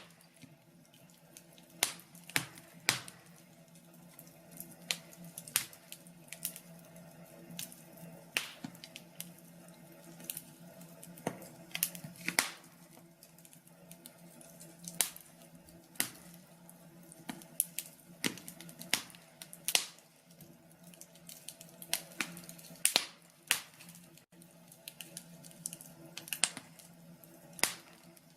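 Wood fire burning in a fireplace, crackling with irregular sharp pops and snaps, sometimes in quick clusters, over a faint steady hum.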